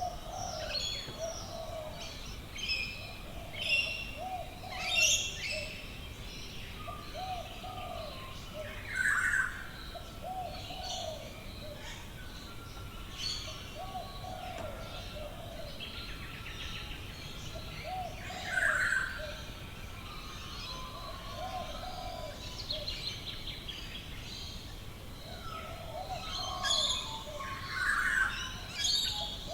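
A mixed chorus of Australian bush birds: many short high chirps and trills, over a low note repeated about every one and a half to two seconds.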